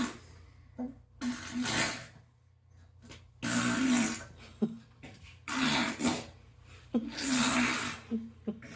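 An eight-month-old baby making a funny breathy vocal sound, four noisy bursts each under a second long, about two seconds apart.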